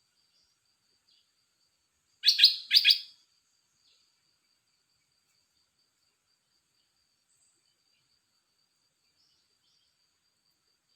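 Red-whiskered bulbul calling: one short phrase of two loud notes about two seconds in, over a faint steady high-pitched whine.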